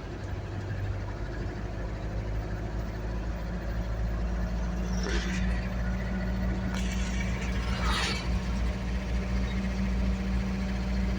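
Vehicle engine running steadily while driving, its hum growing slowly louder. Three brief hissing noises come in the second half.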